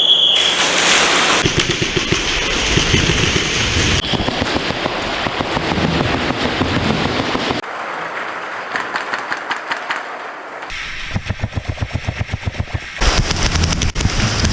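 Airsoft electric guns (AEGs) firing rapid full-auto bursts in a close-quarters exchange, with BBs cracking and clattering on cover. It opens with a short high whistle blast, which starts the point.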